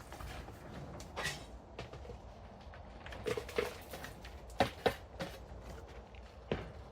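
Handling noises from working old soil out of a spruce's root ball: scattered light clicks, knocks and scrapes, with two sharper clicks a little over halfway through and another near the end, over a low steady hum.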